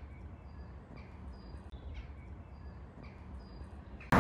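A small bird chirping, short high notes repeating every half-second or so over a faint low rumble. Right at the end a sudden loud rush of wind and road noise cuts in.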